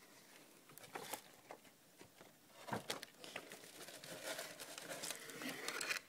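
Packaging of fire-lighters crinkling and rustling as they are handled and taken out, with scattered small clicks, busier in the second half.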